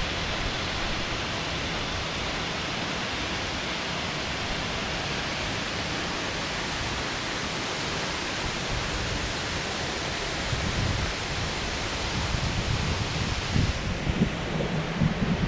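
Steady rushing of a waterfall. About two-thirds of the way in, gusts of wind start buffeting the microphone with an uneven low rumble.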